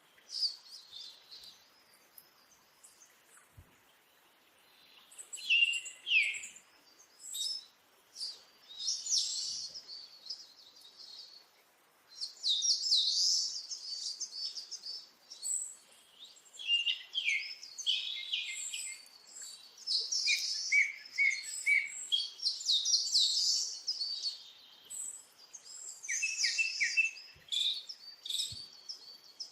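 Parrots chirping and chattering in bursts of rapid high calls, with short quieter gaps between bursts and the densest chattering in the middle stretch.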